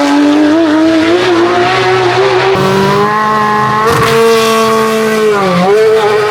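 Hillclimb race car engine at high revs under hard acceleration, its pitch rising gradually, then dropping briefly about five and a half seconds in as it changes gear before climbing again.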